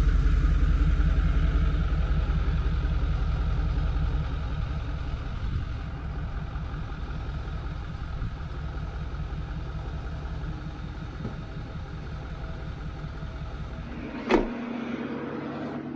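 Ford F450 recovery truck's engine idling steadily, growing fainter over the first few seconds as the truck is left behind. Two sharp knocks near the end.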